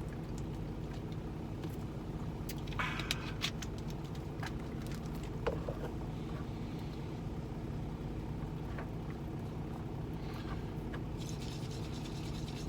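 Steady low hum of an idling semi truck's diesel engine, with a few light clicks and knocks on top.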